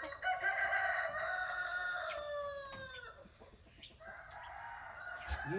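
A rooster crowing: one long crow of about three seconds that drops in pitch at the end, followed by a fainter call.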